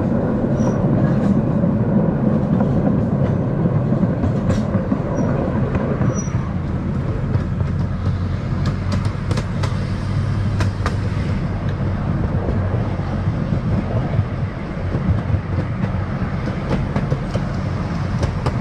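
Hermann Park Railroad's miniature park train running along its track, heard from aboard: a steady low rumble of wheels on rail, with a run of sharp clicks from about eight to eleven seconds in.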